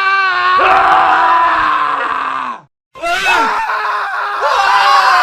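Men screaming, one cut-in clip after another: a wavering scream, then a long scream that falls in pitch and stops dead about two and a half seconds in. After a brief silence, more screaming starts.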